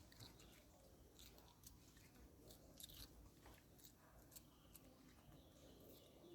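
Faint, irregular clicks and crunches of a monkey chewing food, very quiet against low background hiss.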